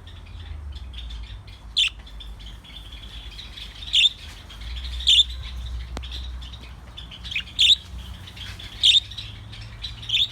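Many birds chirping at once, a busy chatter of small calls broken by several short, loud, sharp calls spaced one to two seconds apart.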